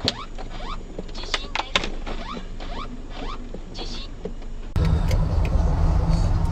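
Many short rising creaks and squeaks with a few sharp clicks, the sound of a building creaking and rattling as it shakes in an earthquake. About three-quarters of the way through it gives way abruptly to a loud, steady low rumble.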